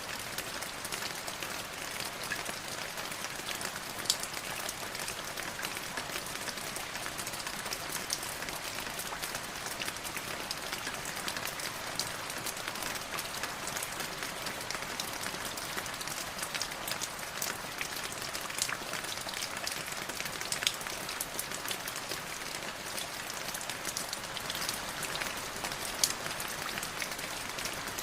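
Light drizzling rain, a steady patter with many small scattered drop clicks.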